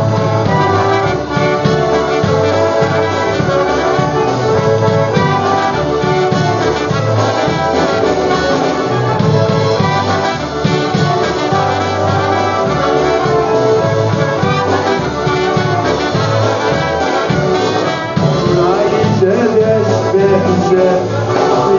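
Live polka band playing an instrumental passage with no vocals, the melody carried by brass over a steady, even bass beat.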